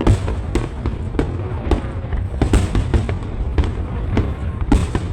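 Fireworks going off in a dense barrage: sharp cracks and bangs several times a second over a continuous low rumble of booms. The loudest bursts come right at the start and again near the end.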